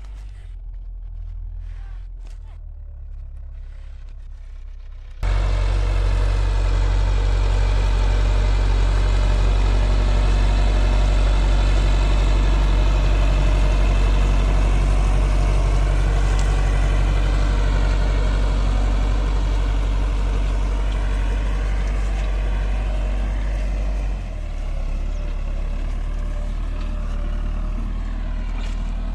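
Massey Ferguson 385 tractor's four-cylinder diesel engine running steadily while working a disc harrow. Fainter at first, it suddenly becomes much louder about five seconds in, then drops back somewhat near the end.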